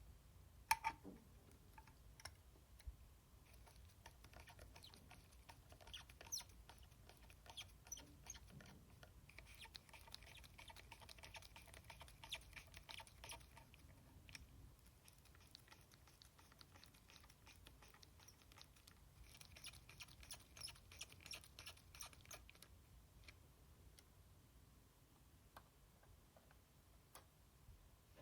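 Faint, close handwork on the console's components during thermal-paste work: a sharp click about a second in, then scattered light ticks and two spells of fine scraping or rubbing, each several seconds long.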